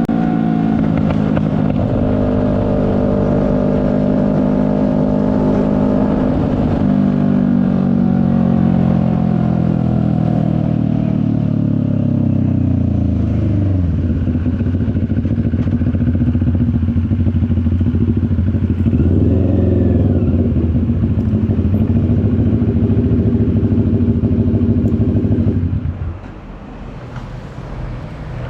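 CFMoto 400NK's parallel-twin engine slowing down, its pitch falling over the first dozen seconds, then idling steadily with one brief throttle blip. It stops abruptly near the end.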